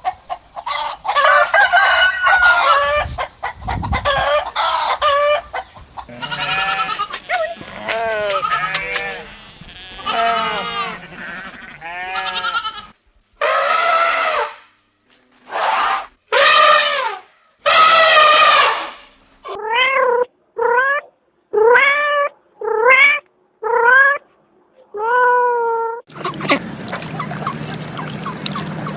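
A string of animal cries, pitched and bending, from more than one kind of animal, with bleat- or meow-like calls the most prominent. In the second half a run of about seven short cries comes about once a second. Near the end a noisier, steadier sound takes over.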